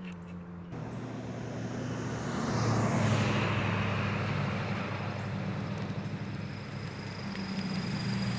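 Subaru BRZ's flat-four engine running through an axle-back exhaust with the muffler deleted, a steady low drone. It swells to its loudest about three seconds in, then slowly eases off.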